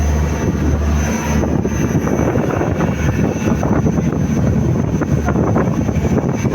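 Boat engine running steadily under way: a constant low drone with a thin high whine above it, and wind rushing over the microphone.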